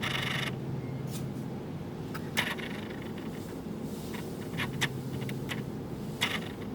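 A kitchen utensil scraping once, then clinking against a container a few times, spread out across a few seconds, over a faint steady hum: the sound of measuring out dough ingredients.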